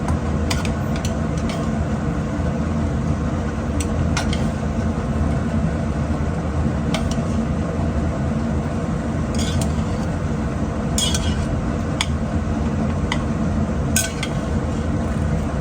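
A steady low mechanical hum throughout, with scattered light clinks and taps of a utensil against a metal pot as cooked spaghetti is lifted out of its cooking water.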